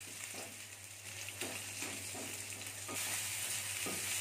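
Fried-rice ingredients sizzling in oil in a metal wok, stirred and scraped by a wooden spatula in irregular strokes; the sizzle gets louder about three seconds in.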